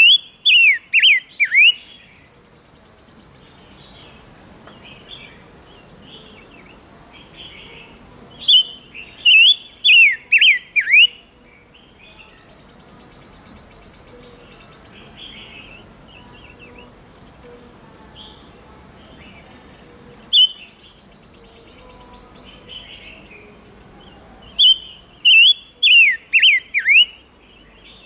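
Red-billed leiothrix (Pekin robin) singing: three loud bursts of five or six quick, clear whistled notes, each sliding downward, with a lone note in between and softer chirps between the phrases.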